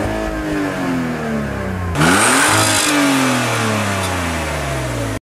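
A car engine free-revving in park, twice: each time the revs start high and fall steadily away. The second rev comes in suddenly about two seconds in, with a rushing hiss from the exhaust.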